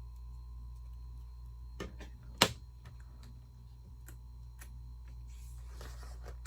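Plastic Lego bricks clicking and tapping as pieces are picked up and pressed into place, with one sharp click about two and a half seconds in as the loudest, a few lighter ticks after it and a brief rustle near the end. A steady low hum runs underneath.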